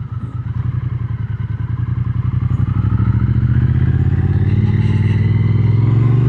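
Triumph Speed Twin 900's parallel-twin engine pulling hard under acceleration, its note climbing steadily in pitch and getting louder as the revs rise.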